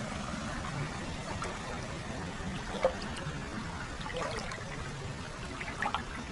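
Hot-spring water flowing steadily into an open-air footbath, a constant trickling and pouring with a few brief gurgles about three, four and six seconds in.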